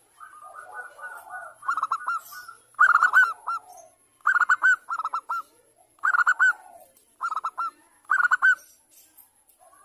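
Zebra dove (perkutut) singing: about six phrases of quick, staccato cooing notes, after a softer, rolling opening in the first second or so.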